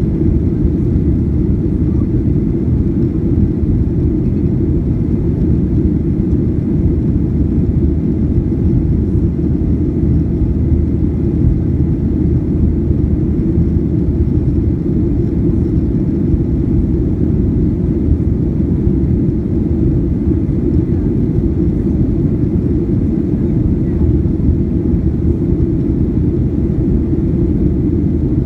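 Boeing 737-800 jet airliner in flight: a steady low rumble of engine and airflow noise that holds level throughout, with no rise or fall.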